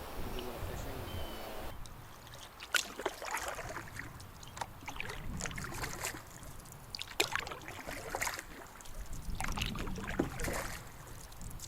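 Canoe paddle strokes: a splash and drip of water every second or two, with an occasional sharp knock of the paddle against the canoe.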